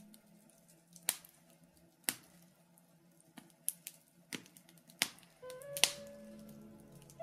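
Wood fire in a fireplace crackling, with sharp irregular pops about once a second. The last note of a song dies away at the start, and the quiet opening notes of the next song come in near the end.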